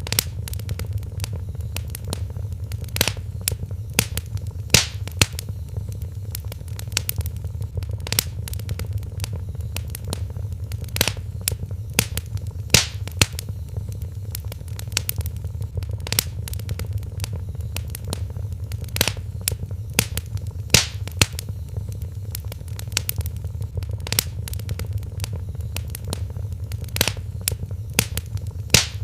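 Wood fire in a fireplace crackling, with frequent sharp pops and snaps over a steady low rumble. The pattern of the loudest pops repeats about every eight seconds, as in a looped recording.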